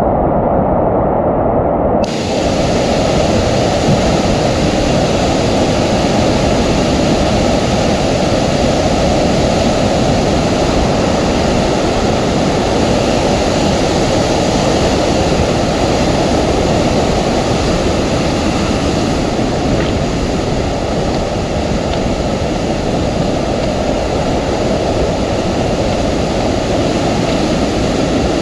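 Loud, steady rush of water, typical of a river running in flood. About two seconds in it turns brighter and fuller.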